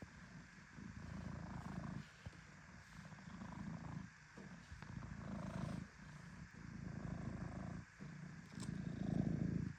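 A low rumble that swells and breaks off in a steady cycle, about every one and a half to two seconds.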